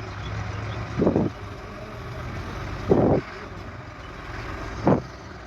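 Heavy machine engine running steadily with a low rumble. Short, louder whooshing bursts come about every two seconds.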